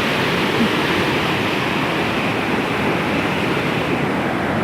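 Floodwater of the swollen Atuel River rushing, a steady loud wash of water noise.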